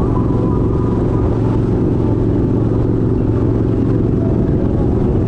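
Kawasaki Vaquero's 1700cc V-twin engine running steadily while cruising, a low even drone with no revving.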